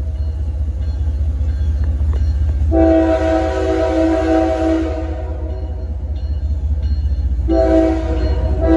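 CSX diesel freight locomotive sounding its air horn, a chord of several tones: one long blast about three seconds in, lasting about two seconds, and another starting near the end, over the steady low rumble of the engine.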